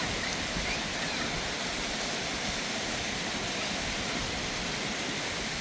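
Steady, even rushing noise, such as running water or wind, with a few faint short chirps about half a second to a second and a half in.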